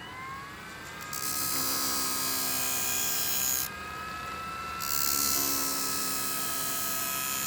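Sharp-N-Go Mini sharpening machine's small electric motor whining steadily at high speed while a knife blade is stropped against its spinning leather disc, making a loud hiss twice, each pass lasting about two and a half seconds.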